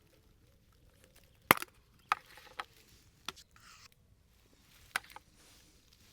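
A handful of sharp, irregularly spaced knocks from hand work with wood or tools, the loudest about one and a half seconds in, with a short scrape in the middle.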